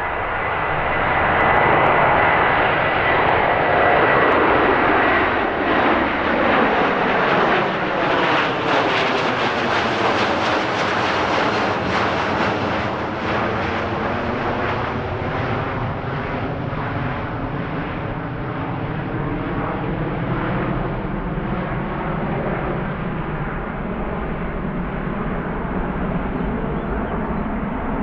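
Jet engine noise of an Airbus A330-343, powered by twin Rolls-Royce Trent 700 turbofans, climbing out after takeoff. It is loudest in the first dozen seconds, with a thin whine that dies away about five seconds in, then it slowly fades as the aircraft moves away.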